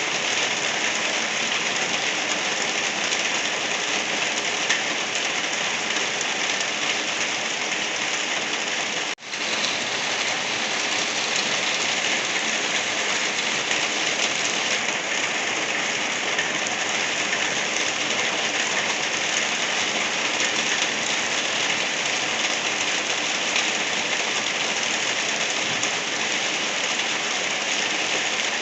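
Steady, gentle rain falling, an even hiss, which cuts out for an instant about nine seconds in.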